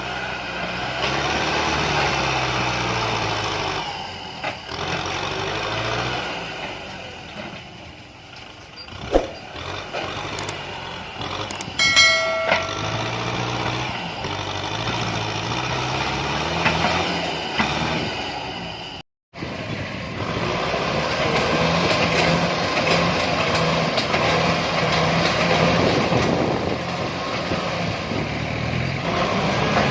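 Kubota M6040 tractor's diesel engine working hard, its pitch rising and falling as it revs up and down. There are a few sharp cracks and a short high-pitched squeal near the middle, and the sound cuts out for a moment about two-thirds of the way through.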